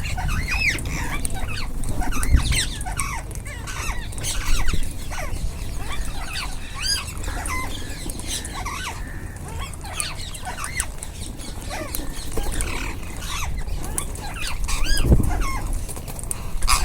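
A flock of ringneck parakeets calling, with many quick overlapping chirps and squawks. A low rumble swells near the end.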